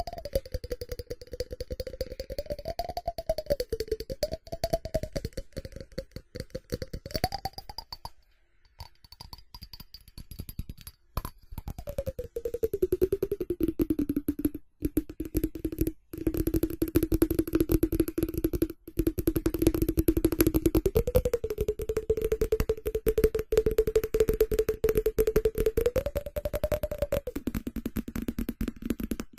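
Fast, continuous fingertip and nail tapping and scratching on ceramic, a dense stream of small clicks with a short lull about a third of the way in. A ringing tone sounds underneath and slides up and down in pitch.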